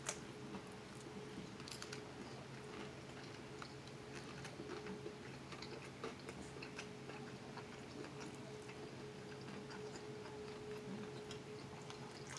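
Faint chewing of a fried egg roll, with a few soft crunchy clicks from bites, over a steady low hum.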